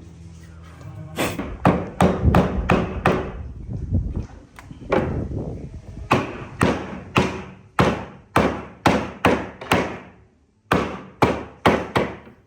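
Repeated hammer blows on wood, about two to three a second, with a short pause about ten seconds in.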